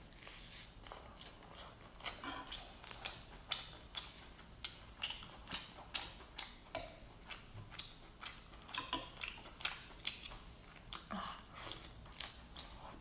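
Close-miked biting and chewing of saucy lobster tail meat: a stream of sharp, irregular mouth clicks.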